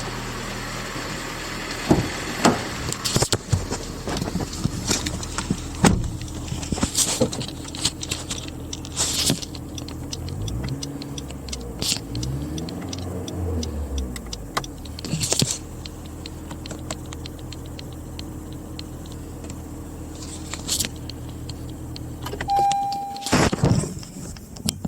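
Honda Accord Hybrid (CR6) running during a start test. Its 2.0-litre four-cylinder LFA engine holds a steady low hum, its pitch rises and falls a couple of times around the middle, with scattered clicks and knocks throughout and a short beep near the end.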